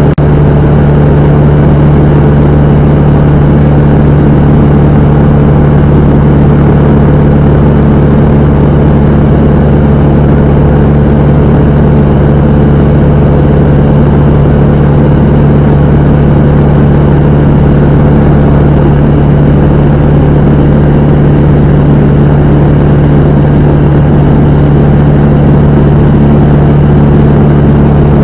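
Cessna 172M's four-cylinder Lycoming O-320 engine and propeller running at steady power, a loud, unchanging drone with a strong low hum.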